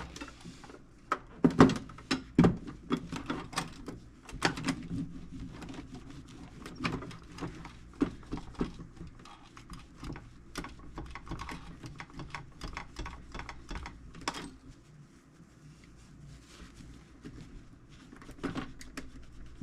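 Microfiber cloth rubbing wax off a sheet-metal toolbox: irregular scuffing with light clicks and knocks from handling the metal, the loudest knocks about two seconds in.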